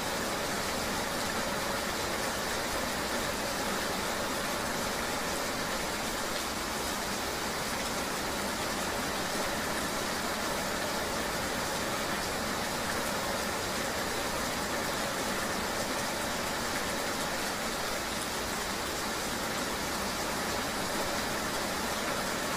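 Steady rain ambience: an even hiss with no separate drops or events standing out.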